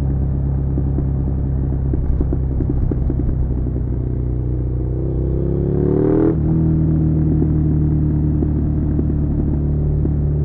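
Suzuki SV650's 645 cc V-twin engine running under way, holding steady revs, then climbing in pitch for a couple of seconds before dropping suddenly about six seconds in on a gear change, and running on steadily after it.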